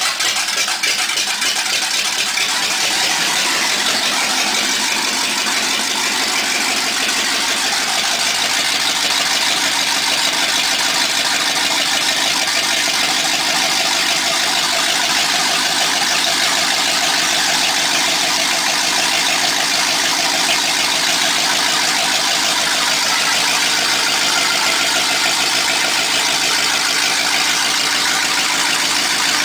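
Chevy 350 small-block V8 in a stock-car race truck running steadily just after being started, its sound settling in the first second or two. The engine has fresh gaskets and is being tried out to see how it runs.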